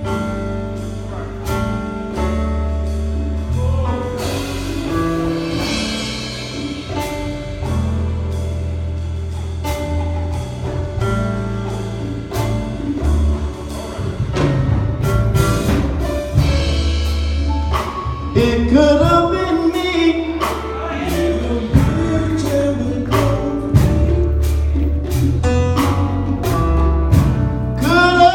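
Live gospel band playing a song's introduction: held keyboard chords over a steady bass line and a regular drum beat. A singing voice comes in about fourteen seconds in.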